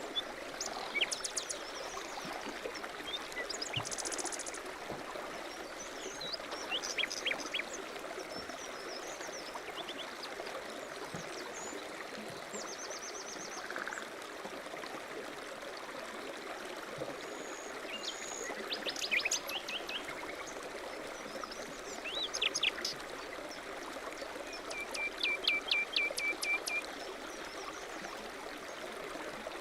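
A stream running steadily, with several songbirds chirping and trilling over it, including a fast run of repeated notes near the end.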